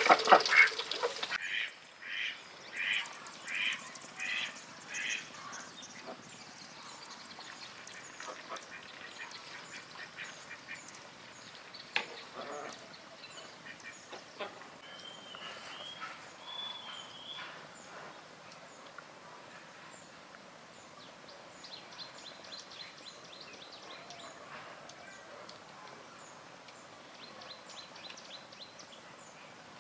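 Bird calls: a run of about five evenly spaced harsh calls in the first few seconds, then quieter outdoor ambience with a steady high-pitched whine and a few scattered chirps.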